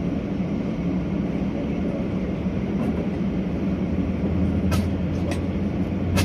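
Steady cabin noise of a Boeing 737-800 on the ground: a constant hum with a deeper rumble that builds from about four seconds in. A few short sharp clicks, the loudest near the end.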